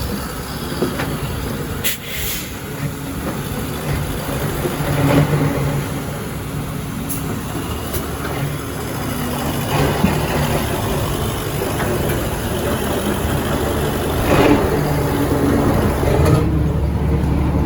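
Heavy dump truck's engine running with a steady low hum, surging louder a few times, amid street traffic.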